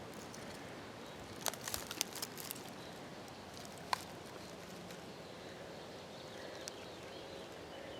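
Faint outdoor ambience with a steady low hiss and a few short, scattered clicks and crackles: a cluster about one and a half to two and a half seconds in, and a single one about four seconds in.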